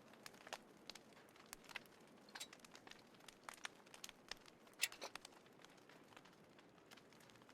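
Small wood fire crackling: irregular sharp pops and snaps over a faint hiss, with one louder pop about five seconds in.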